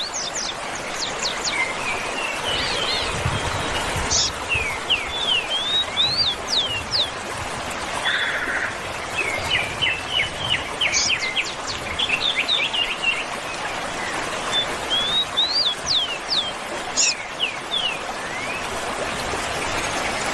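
Several birds singing and chirping in short phrases of quick rising and falling whistled notes, over a steady rushing hiss.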